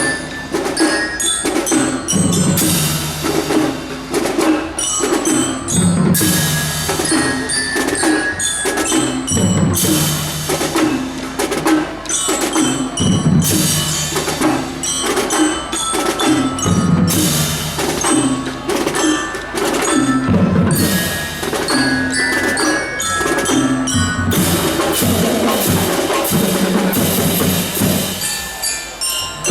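A drum band playing: drums and cymbals under mallet percussion such as glockenspiel or bell-lyre, repeating a short melodic figure in a steady rhythm, with cymbal crashes every few seconds.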